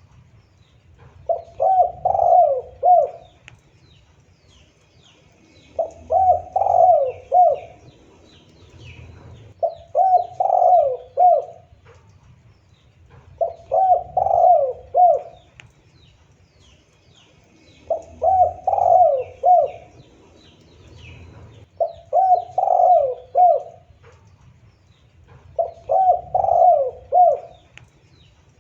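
Spotted dove cooing: a phrase of three or four quick coos about every four seconds, seven phrases in all. Faint high chirps of small birds sound behind it.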